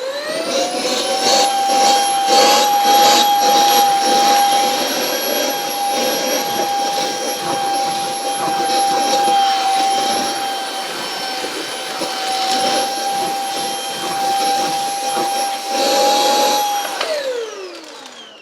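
Aspiron cordless stick vacuum's 250 W brushless motor spinning up as it is switched on and running with a steady high whine and rushing suction. It is switched off about a second before the end and its whine falls away as the motor winds down.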